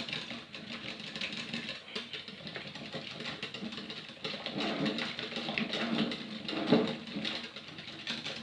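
Hand whisk beating a chocolate muffin batter of eggs, cocoa, sugar, oil and milk in a bowl: quick, continuous clicking and scraping of the wires against the bowl.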